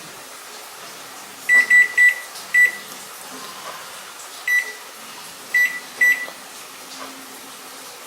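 Electronic oven control panel beeping as its buttons are pressed: seven short, same-pitched beeps at irregular spacing, three in quick succession about a second and a half in, then single ones, as an extra cooking time is keyed in.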